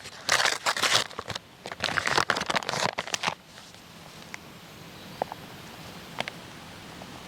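Crinkling rustle in loud bursts for about three seconds, then a faint steady hiss with a few scattered light clicks.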